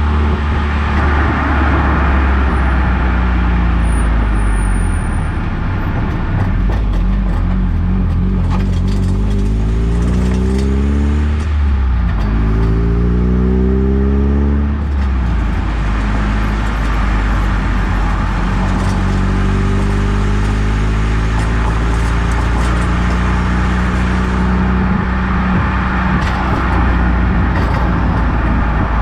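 Eunos Roadster's four-cylinder engine pulling up through the gears, rising twice with a dip between, then cruising steadily over road noise. A rattle from the suspension is heard about five seconds in, and a clunk near the end that the owner suspects is the suspension knocking at full extension.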